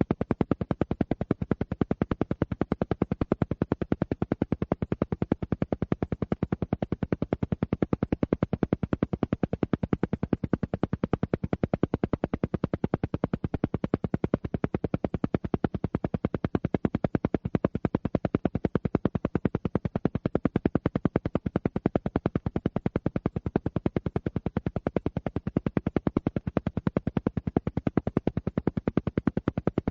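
Alpha-wave entrainment pulses: a steady train of rapid, evenly spaced pulses, many a second, running without change.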